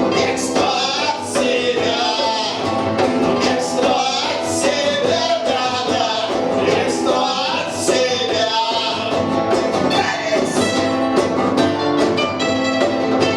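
Punk band playing a song live, with a man singing over the instruments.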